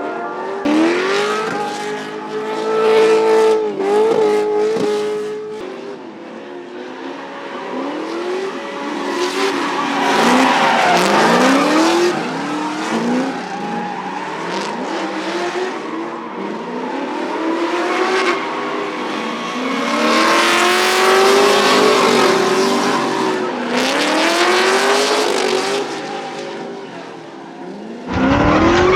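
Drift cars' engines revving up and down again and again, with tyres squealing and skidding. The sound swells and fades as cars go by, and changes suddenly near the end.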